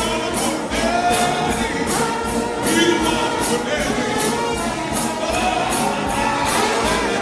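A United House of Prayer shout band playing live gospel music, with layered melodic parts over a steady drum-and-cymbal beat.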